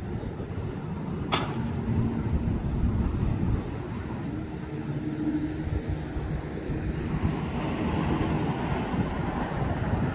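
Lufthansa Airbus A380's jet engines rumbling steadily in the distance as it departs, with wind buffeting the microphone.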